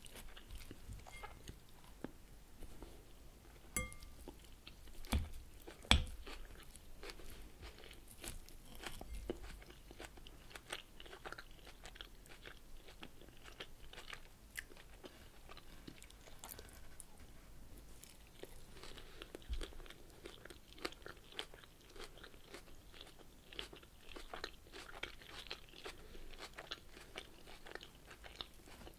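Close-miked crunching and chewing of a crisp leafy salad of lettuce and radicchio, with many small crackles as the leaves are bitten and chewed. A few sharp clinks of a metal fork against the glass bowl, the loudest about six seconds in.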